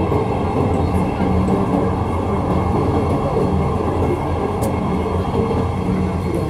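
Inside a Dhaka Metro Rail train running along the track: a steady rumble of the running train with a low hum underneath.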